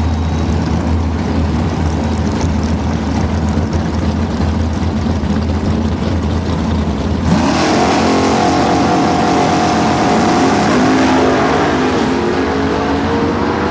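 Holden VL Calais drag car's V8 engine running with a low, steady rumble. About halfway through it suddenly gets louder and the revs climb sharply, then hold high.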